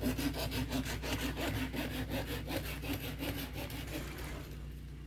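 Hand saw cutting through a wind-fallen tree branch with quick, even back-and-forth strokes that stop near the end.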